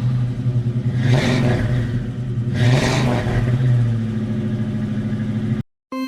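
A motor running steadily, with two brief rushing swells about one and three seconds in; it cuts off suddenly near the end.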